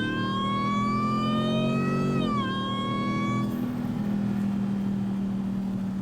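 Supercharged SRT Jeep V8 with its supercharger whining: a high whine climbs slowly in pitch for about two seconds, drops sharply, then fades out a second later, leaving the engine's steady low hum.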